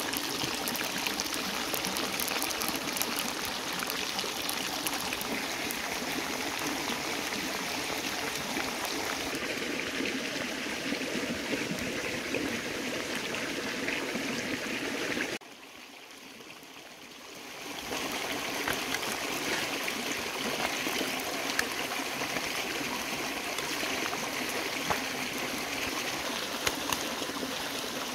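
Whole stuffed frogs deep-frying in hot oil in a wok, a steady sizzle full of small crackles. Just past the middle it suddenly falls much quieter for about two seconds, then comes back.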